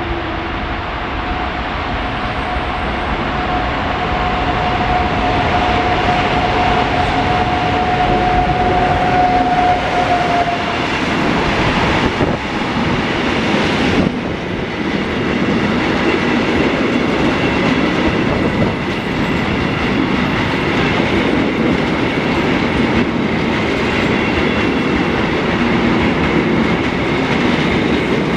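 Freight train passing through a station: a continuous loud rumble of wagons rolling by with wheel clatter over the rail joints. A steady mid-pitched tone sounds for about the first ten seconds, and faint high thin wheel squeals come in during the second half.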